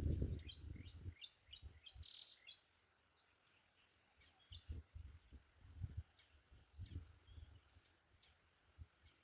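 A bird chirping: a quick run of short, high chirps at about four a second that stops after two and a half seconds, then a few scattered chirps. Low rumbling thumps come in at the start and again a few seconds later.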